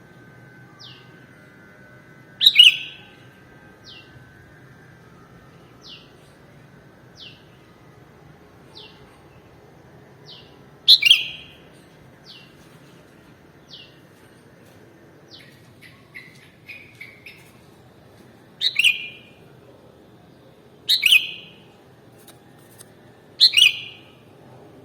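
Sooty-headed bulbul (kutilang) calling: five loud, short, bright calls spaced several seconds apart, over a series of faint short downward chirps about every second and a half.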